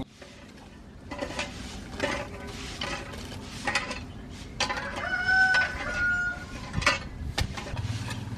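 A rooster crowing once about halfway through, a long held call, amid chickens clucking and short sharp sounds.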